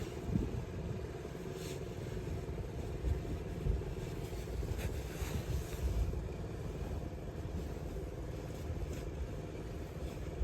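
Wind buffeting the microphone outdoors in a blizzard: an uneven low rumble, with a few faint brief scrapes.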